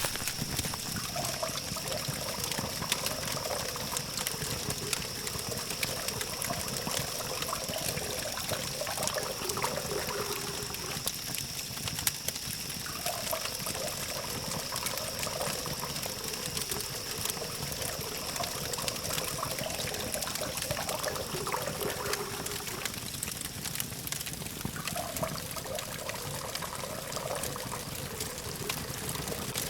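Campfire burning with a continuous run of fine crackles over a steady high hiss, with a low hum of distant traffic behind it.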